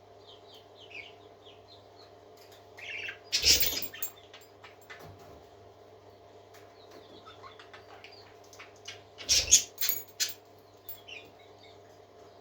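Parakeets chirping softly in short high notes, with two loud bursts of wing flapping, the second a quick cluster of flutters. A steady low hum runs underneath.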